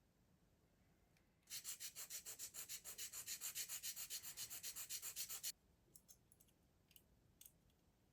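Fast back-and-forth sanding of a small plastic model-kit part, about seven strokes a second for around four seconds, starting about a second and a half in and stopping abruptly. A few faint clicks follow.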